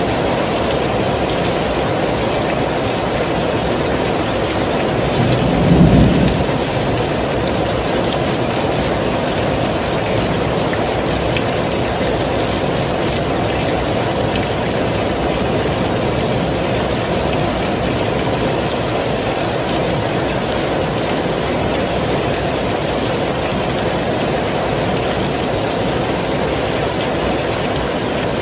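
Heavy rain falling in a steady, even hiss. About six seconds in, a brief low rumble of thunder swells up and dies away.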